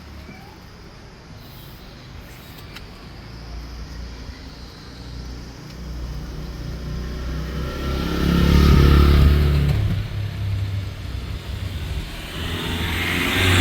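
Motor vehicles passing along a street: a low engine and tyre rumble that builds to a loud pass about eight to ten seconds in, then a second vehicle swells up near the end.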